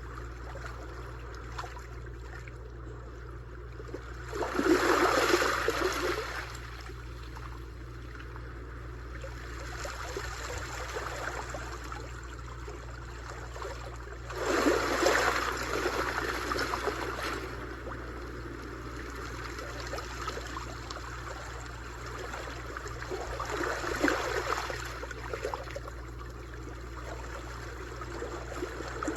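Sea waves washing onto a shore: a steady wash of water with three louder swells breaking about ten seconds apart, over a constant low rumble.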